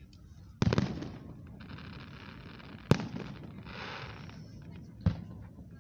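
Aerial fireworks shells bursting: three booms, the first a little under a second in with a short rumbling tail, the next about three seconds in and the last about five seconds in.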